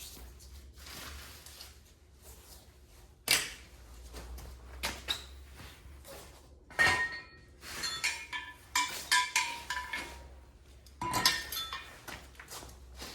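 Metal tools and parts clinking and clanking: sharp knocks, each with a short metallic ring, one about three seconds in, another near seven seconds, a quick run of them between eight and ten seconds, and one more about eleven seconds in.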